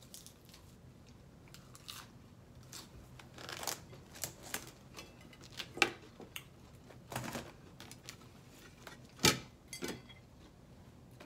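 Close chewing of crunchy papaya salad: irregular crunches, a couple of them much louder than the rest.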